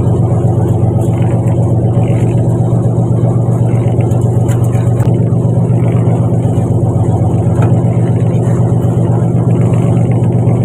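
Fishing boat's engine running steadily at a constant speed, a loud, even drone with a deep hum.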